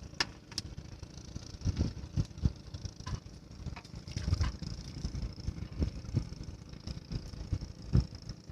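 Strong wind buffeting the microphone in uneven low rumbling gusts, with a few sharp clicks.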